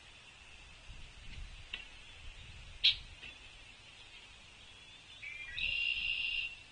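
Outdoor bird-feeder ambience. A single sharp knock comes about three seconds in, then near the end a few short notes lead into a buzzy, trilled bird call about a second long.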